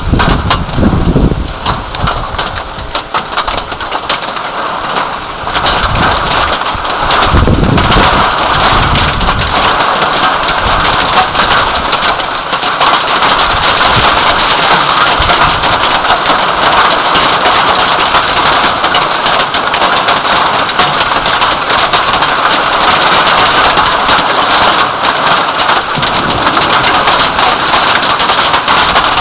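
Heavy rain pouring down hard in a thunderstorm, getting heavier and more even about five seconds in, with a few low rumbles in the first eight seconds.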